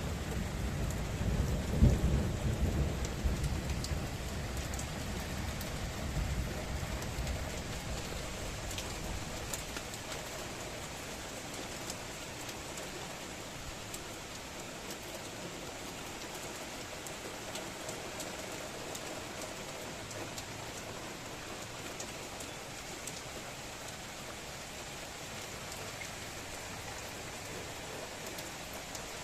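Heavy downpour of rain with a roll of thunder rumbling in the first few seconds, loudest about two seconds in and fading out by about ten seconds; after that a steady rain hiss with scattered drop hits.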